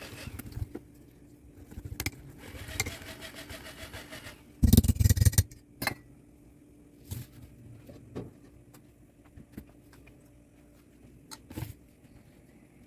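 Scattered knocks and clatter of kitchen utensils and cookware being handled, with a louder cluster of knocks about five seconds in.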